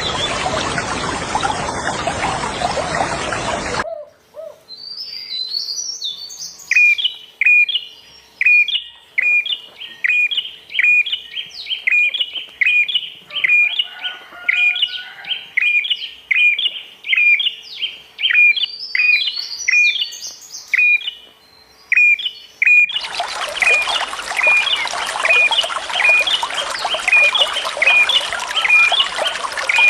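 Rushing water that stops about four seconds in, then a songbird repeating a short, falling call about one and a half times a second, with a few higher chirps mixed in. The rushing water comes back about 23 seconds in while the bird keeps calling.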